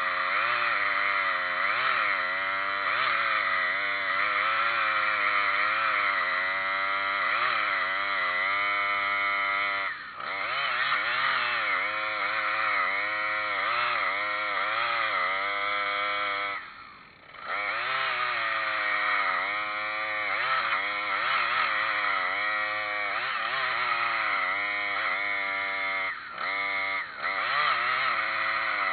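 Chainsaw cutting sweet gum wood, its engine pitch rising and falling with throttle and load. The sound dips briefly a few times, most deeply about two-thirds of the way in.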